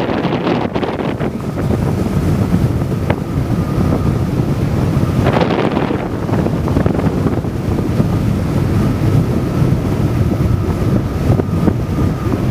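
Strong wind blowing across the microphone: a loud, steady, deep roar that swells and eases in gusts, with a faint steady high tone behind it.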